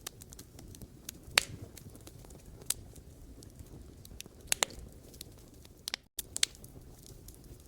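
Wood fire crackling: sharp pops every second or so, some in quick pairs, over a low steady rumble of burning logs. The sound cuts out completely for an instant about six seconds in.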